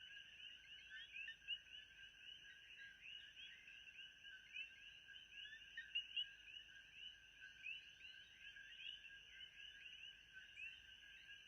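Faint ambience of a dense chorus of many small chirping animal calls overlapping without pause, with a steady thin high tone above them.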